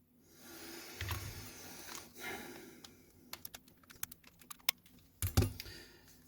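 Small screwdriver and fingers working the plastic shell of a Nintendo Switch Joy-Con controller as its back screws go in. A soft scratchy turning sound comes first, then a run of light plastic clicks and taps, with a louder knock about five seconds in.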